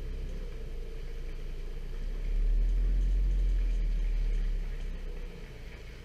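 Distant thunder: a deep rumble that swells about two seconds in, holds, then fades away.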